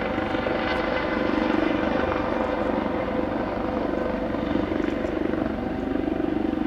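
Air Force One's four jet engines (a VC-25A, the Boeing 747-200 built for the President) running steadily, a wide roar with a steady whine over it.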